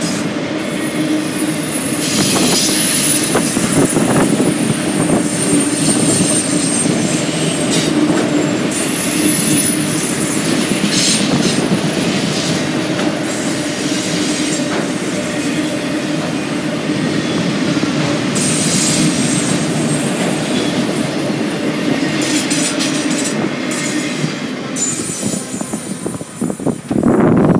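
Autorack freight cars rolling past close by: steady wheel-on-rail rumble and clatter, with a high thin wheel squeal coming and going several times. The noise fades near the end as the last car passes and pulls away.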